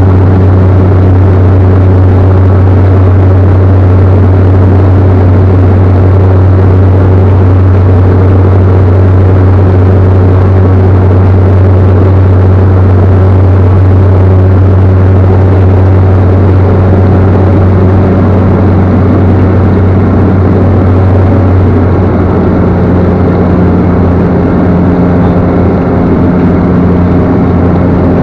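Steady drone of a Cessna Caravan's single Pratt & Whitney PT6A turboprop engine and propeller, loud, with a strong low hum under it. The tone shifts slightly and the low hum eases about 22 seconds in.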